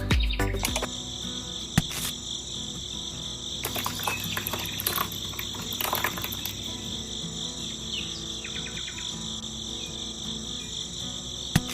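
Crickets chirring in a steady, continuous high trill, with a few sharp clicks or taps over it.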